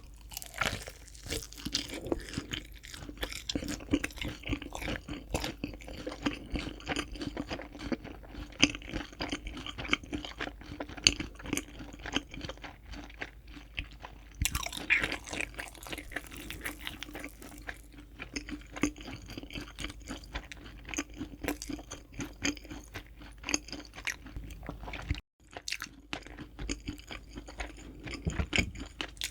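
Close-miked crunching and chewing of crispy fried chicken, with dense crackly bites throughout and a brief break about 25 seconds in.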